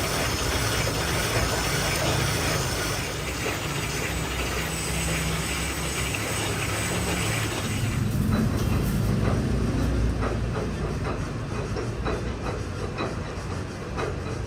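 Workshop machinery running with a steady low rumble and hiss. About eight seconds in the hiss fades and a rapid clatter of small clicks takes over.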